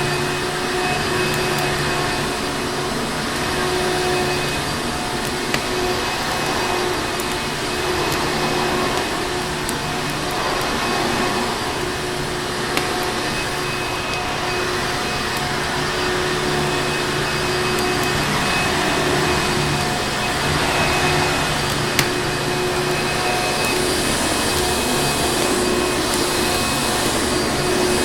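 Vacuum cleaner motor running steadily, a constant rushing noise with a steady hum. A few sharp clicks, fireplace crackles, stand out now and then.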